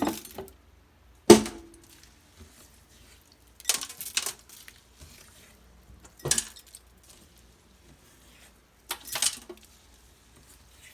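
Glass jar and dishes clinking and knocking in a sink, in about five short separate bursts with quiet between.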